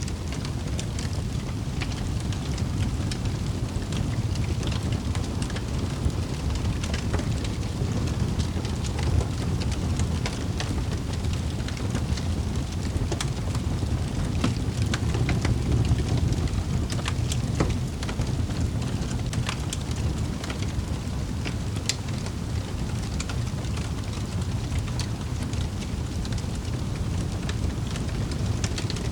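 Wood fire burning in a fireplace: a steady low roar of flames with frequent irregular sharp crackles and pops.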